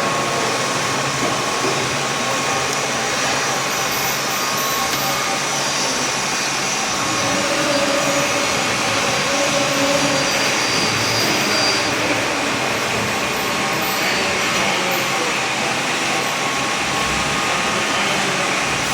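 BFW HF 3.5 milling machine running: a steady mechanical whir of its motor and gearing, with a few faint tones coming and going near the middle.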